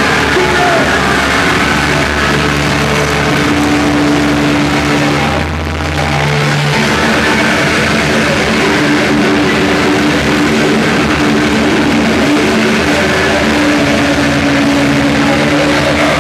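Loud live rock music from a full band, dense and steady, with a brief drop in the high end about five and a half seconds in.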